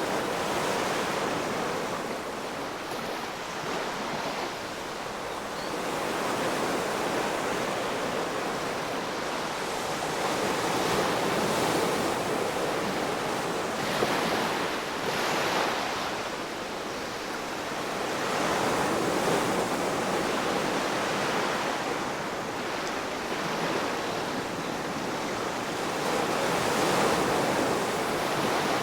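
Ocean waves washing in, a continuous rushing surf that swells and fades every several seconds.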